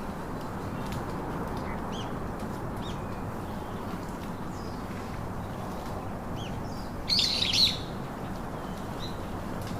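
Small birds chirping in short scattered calls, with a loud burst of rapid chirps about seven seconds in, over a steady low rushing background noise.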